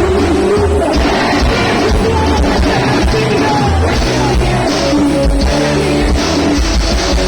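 Loud live band music with singing, a steady bass and drum beat, and a rock sound.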